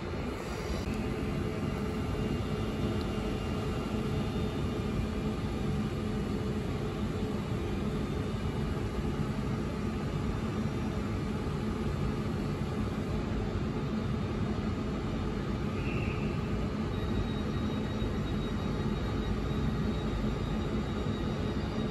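An LNER Azuma (Hitachi 800-series) passenger train running slowly along the platform: a steady rumble of wheels on rail with the hum of its traction equipment.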